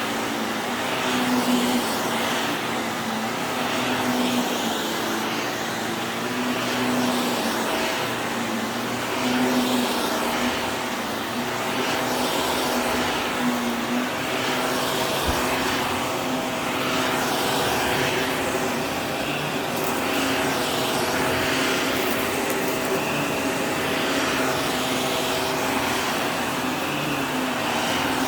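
Vacuum cleaner running steadily, a motor hum over a rushing of air, with small rises and falls in level as it works over the floor.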